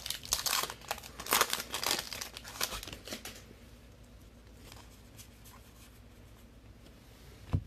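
Trading-card pack wrappers being torn open and crinkled by hand, a busy rustling that dies away about three seconds in. A single sharp knock near the end.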